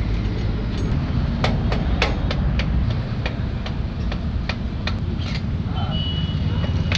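Hand tools knocking and clicking on the motorcycle's swingarm fittings as it is unbolted: about a dozen sharp, irregular metal knocks over a few seconds, over a steady low rumble.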